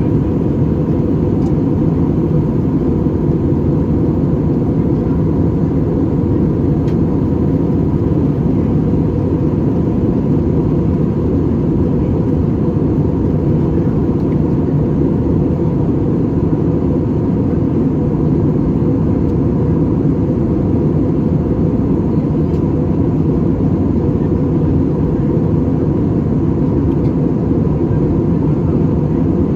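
Steady cabin rumble of an Airbus A320-200 under way, the engines and airflow giving a deep, even roar with a faint steady whine above it.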